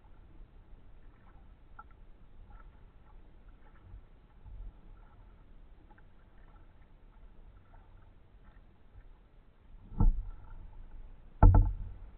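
Kayak paddling: faint paddle strokes and water with small scattered ticks, then two loud thumps about ten and eleven and a half seconds in.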